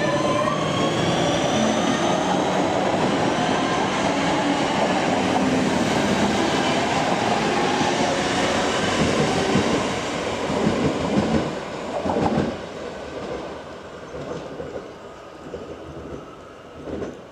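Northern passenger train pulling out of the platform and running past with a steady rumble and a whine. About ten seconds in it fades as the train draws away, with a few clacks of wheels over rail joints near the end.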